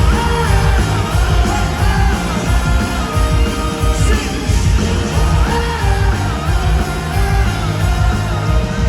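A live rock band plays with a lead singer carrying the melody over guitar, bass and drums. The sound is loud and steady, with a heavy low end.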